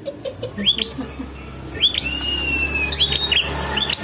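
A prenjak (prinia) giving its fighting call: a run of sharp, hooked chirps repeated several times, with one long thin whistle about two seconds in.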